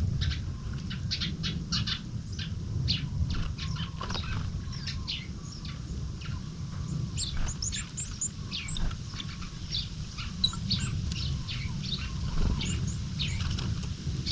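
Small wild songbirds calling, a quick run of short high chirps and thin notes from several birds, with a steady low rumble underneath.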